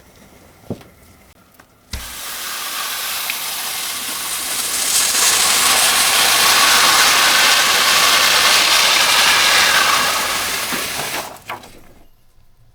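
A loud steady spraying hiss from the keyboard cleaning, starting suddenly with a thump about two seconds in, growing louder midway and stopping near the end.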